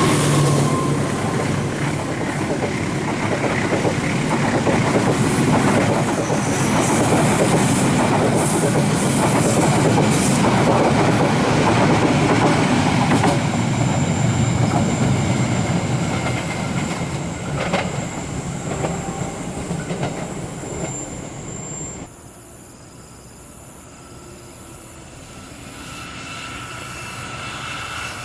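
Passenger train running past at close range: a loud, steady rumble of wheels on rails with a thin high squeal in the second half. About three-quarters of the way through the sound drops suddenly, then a quieter train sound builds again near the end.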